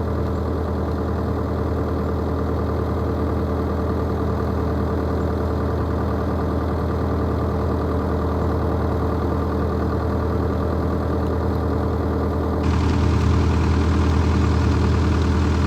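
Excavator diesel engine running steadily at idle. About thirteen seconds in it gets louder, with a hiss added on top.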